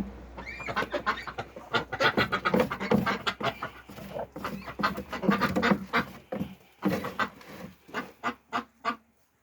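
Domestic ducks eating a potato, corn, wheat and sunflower mash: rapid wet clicking and dabbling of their bills in the feed, with a few honking quacks. The clicks thin out near the end.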